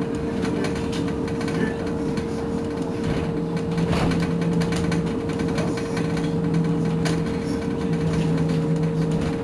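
Irizar ie tram battery-electric bus running, with a steady electric whine and a lower hum that cuts in and out several times over a low rumble.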